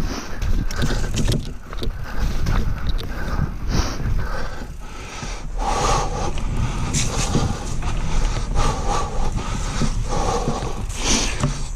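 Mountain bike, a Whyte 901, being ridden over a rough dirt trail: the frame and parts clatter and scrape over bumps while wind buffets the microphone with a constant rumble.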